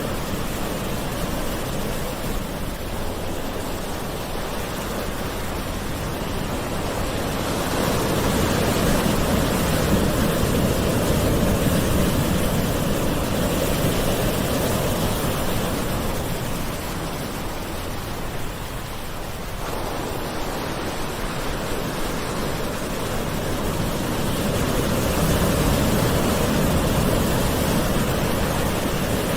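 Gentle ocean waves washing on a shore in a continuous rushing wash that swells and ebbs slowly, with louder surges about a third of the way in and again near the end.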